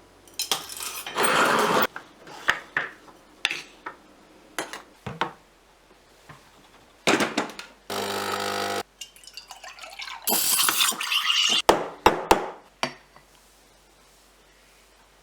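A string of separate metal clinks and knocks, with two stretches of hiss lasting about a second each and a brief steady hum about eight seconds in.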